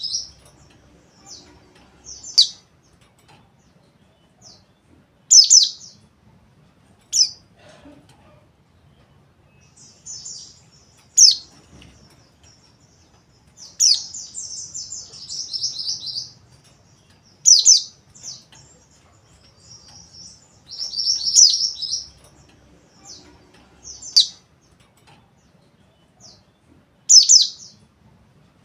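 Mountain white-eye (Zosterops montanus) calling in a rough, rapid chattering trill ('ngeriwik'). Short, sharp, high notes come every second or two, with longer chattering runs about a third and three-quarters of the way through.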